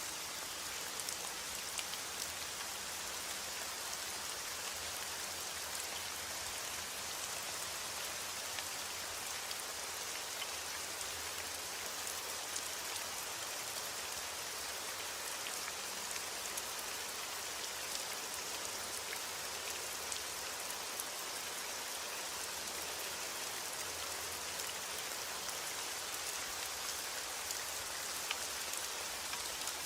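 Steady rain falling, with many small drop ticks on a surface over an even hiss.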